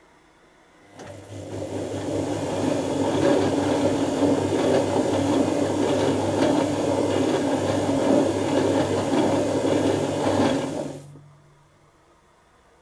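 Dyson Contrarotator CR01 washing machine running a wash: its motor turns the drums for about ten seconds with a steady hum and the churning of the wet load, then stops suddenly.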